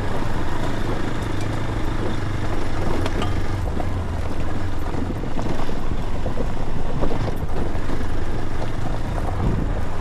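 Steady low drone of a running vehicle, with a constant hum and a rushing noise over it.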